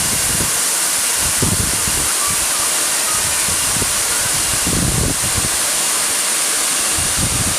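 Waterfall: a loud, steady hiss of falling water, with uneven low bumps now and then.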